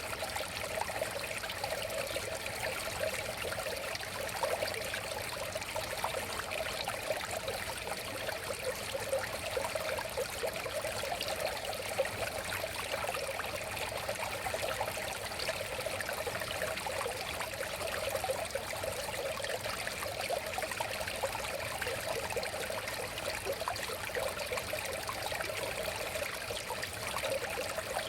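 A river flowing steadily, its water babbling and trickling over rocks.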